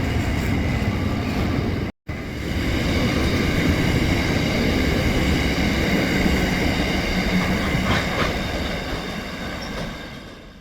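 A train running on the rails: a loud, continuous rumble with steady high tones over it. It breaks off abruptly about two seconds in, resumes, and fades away at the end.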